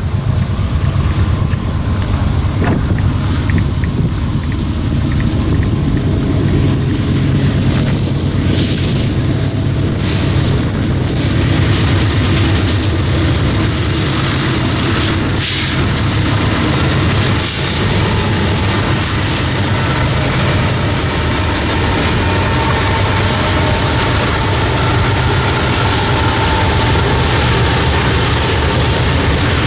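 Freight train rolling past with a loud, steady rumble, and wind buffeting the microphone.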